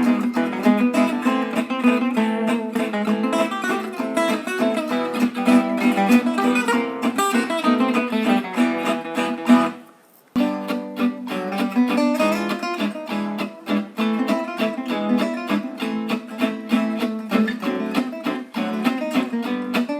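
Background music of fingerpicked acoustic guitar, breaking off for about half a second about halfway through before carrying on.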